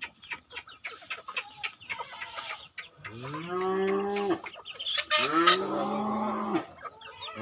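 Farm animals calling: short clucks and ticks for the first few seconds, then two long, low calls, each rising at the start and then held for about a second and a half.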